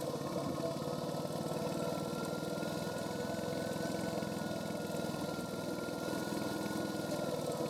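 Royal Enfield Hunter 350's single-cylinder engine running through its stock exhaust while riding at a steady pace, with a faint whine that rises a little in the middle and eases back near the end.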